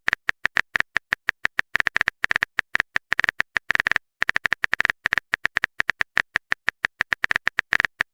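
Text-typing sound effect: a rapid, uneven run of short clicking blips, several a second, with a brief pause about halfway.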